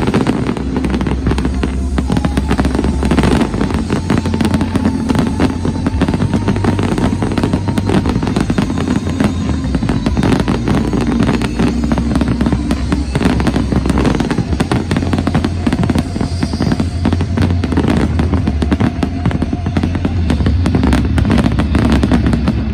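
Fireworks finale: a dense, continuous barrage of shell bursts, bangs and crackling, with music playing underneath. The barrage stops abruptly near the end.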